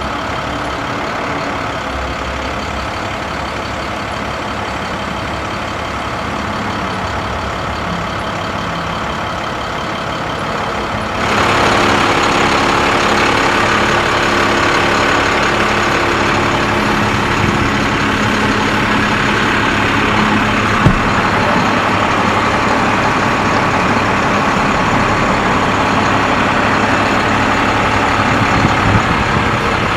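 International 7300 bucket truck's MaxxForce DT diesel engine running steadily at idle. About eleven seconds in, the sound suddenly steps up louder with an added hiss, then holds steady; a single sharp click comes near the middle.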